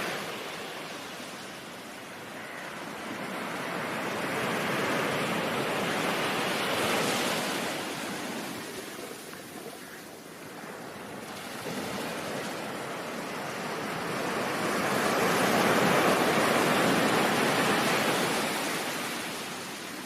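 Ocean surf: a rushing wash of waves that swells and ebbs slowly, building twice, about seven and sixteen seconds in, before falling away.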